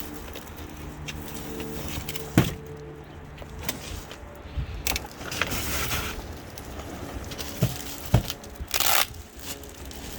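Unboxing and handling noises from a large fridge package: two sharp knocks, one a couple of seconds in and one near the end, and bursts of scraping and rustling as the packaging is worked. A faint steady hum sits under the first half.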